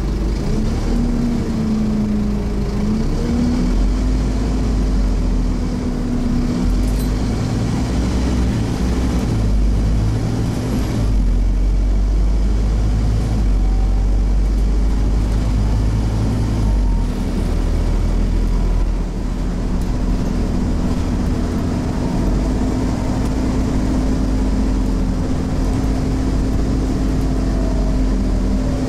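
Scania CN270UB OmniCity bus's diesel engine heard from on board, working hard as the bus is driven. Its low rumble changes note several times, with a steady whine running over it.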